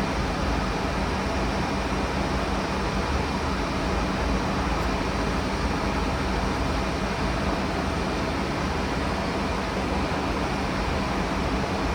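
Steady cockpit noise of a Fokker 100 in flight: an even rush of airflow and air-conditioning with a low rumble underneath.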